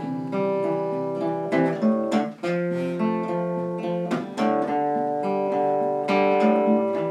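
Acoustic guitar playing an instrumental passage, picked and strummed notes ringing on between sung verses of a slow country song.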